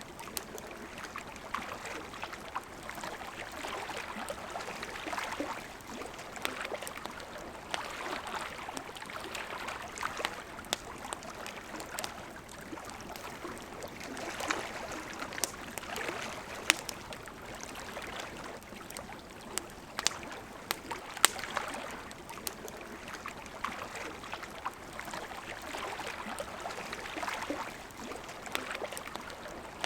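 River water flowing and burbling steadily, with a wood campfire crackling over it in scattered sharp pops.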